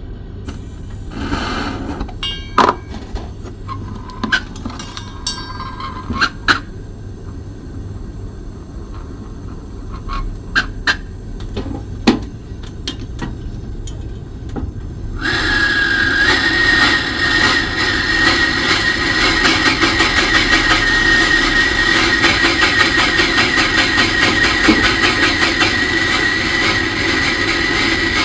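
Scattered clinks and knocks of tools. About halfway through, a sudden steady hiss with a thin whistling tone starts and holds: a gas brazing torch burning while joining refrigerator compressor pipes.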